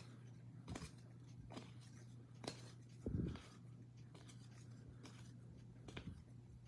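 Soft handling noises of trading cards and packs being sorted: a few scattered clicks and rustles, with a duller thump about three seconds in, over a steady low electrical hum.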